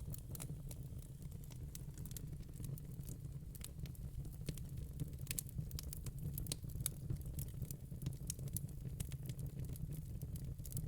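Wood fire in a fire pit crackling, with many irregular sharp pops and snaps over a steady low rumble of the flames.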